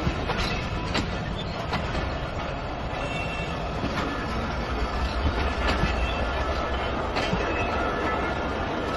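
Pakistan Railways passenger coaches of the Allama Iqbal Express rolling past close by. The wheels clack over rail joints every second or so, over a steady rumble, with a faint squeal of wheels on rail.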